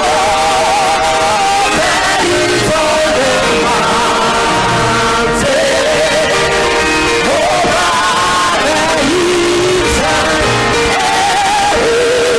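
Church choir singing a worship song with live instrumental accompaniment, a sung melody with vibrato over a long held note.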